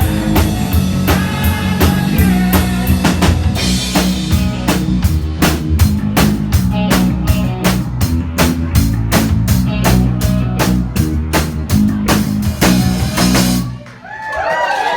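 Live rock band playing with drum kit, bass and guitar, the drums hitting a steady beat; the song ends abruptly near the end, and voices from the crowd follow.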